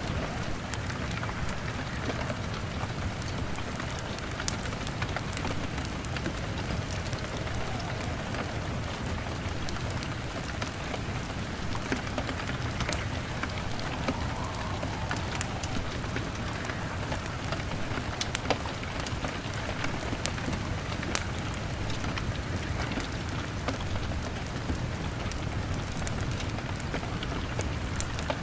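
Steady heavy rain beating on a window, with the scattered sharp pops and crackles of a log fire burning.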